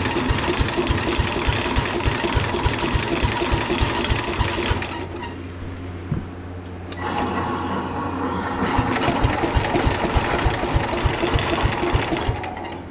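Sears Custom 10XL garden tractor's engine running with a rapid, even beat, easing off for a couple of seconds around the middle and then cutting off abruptly near the end. It runs off balance, which the owner blames on a bent engine pulley or output shaft, so everything on the machine rattles.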